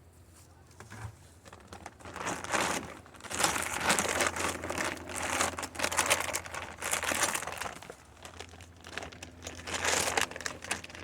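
Crinkling and rustling of a large feed bag being handled in uneven bursts, as someone tries to get it open. It starts about two seconds in.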